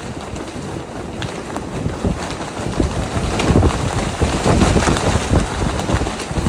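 Strong wind buffeting the microphone with a low rumble, gusting harder about halfway through.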